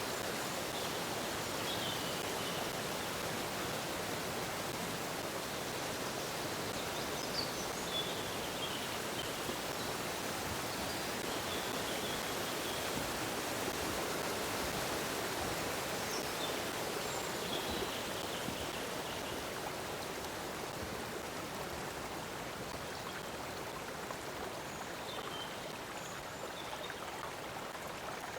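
Stream water flowing steadily, with a few faint, brief bird chirps now and then.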